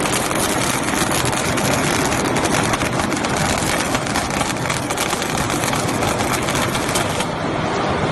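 Rebar flash butt welding machine at work: a dense, spitting crackle from the flashing at the joint over a steady electrical hum. The crackle eases off slightly shortly before the end.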